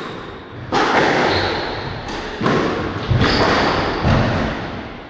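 Squash rally: the ball struck by rackets and thudding off the court walls, several heavy hits about a second apart, each echoing in the court.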